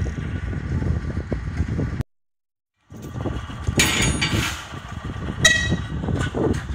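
Narrow-gauge train running slowly past, with a low rumble of wheels and running gear. The sound cuts to silence for nearly a second about two seconds in. Near the end there is a short high toot.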